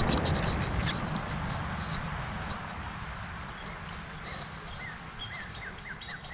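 Small birds chirping in short, quick, squeaky calls, with a run of falling chirps in the last couple of seconds. A few knocks come at the start over a low rumble that fades away.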